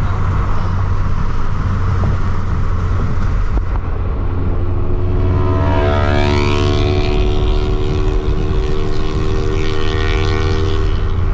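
Car engine and road noise while driving, a steady low drone. About halfway through, a second engine note with a clear pitch joins in and holds steady.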